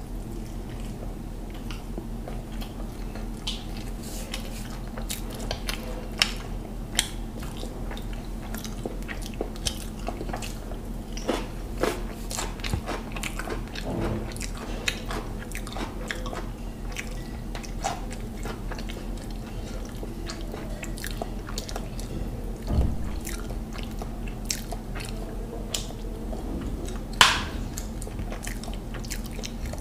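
Close-up chewing of a mouthful of mutton biryani: a scatter of short wet smacks and clicks, over a steady low hum. One louder smack comes near the end.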